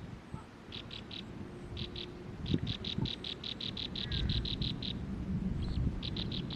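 A bird calling in runs of short, high, rapidly repeated notes, several a second, with the longest run near the middle, over a low rumble.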